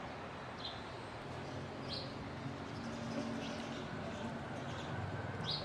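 A bird chirping: a few short, high chirps spaced a second or so apart, over a faint low steady hum.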